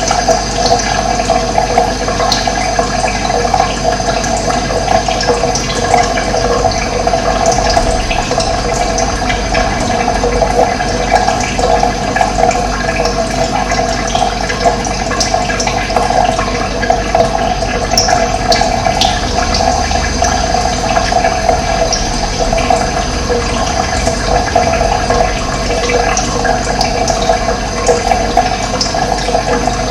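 Running water flowing steadily, an even, continuous rushing.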